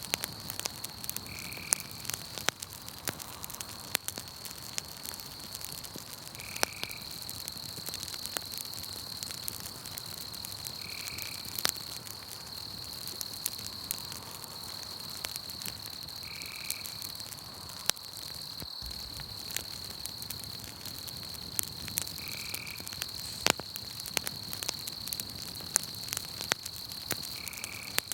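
Campfire crackling with scattered sharp pops, over a night chorus: a steady high-pitched trill and a short chirp that comes about every five seconds.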